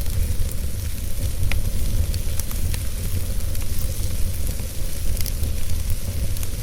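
Wood fire burning in a fireplace, with a steady low rumble and scattered sharp crackles and pops throughout.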